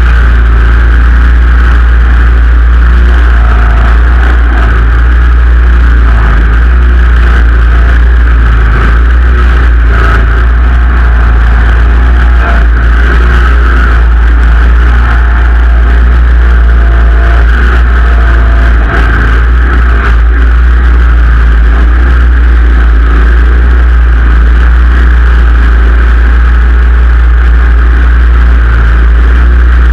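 Simplicity Legacy XL garden tractor engine running steadily and loud, with a deep low rumble throughout.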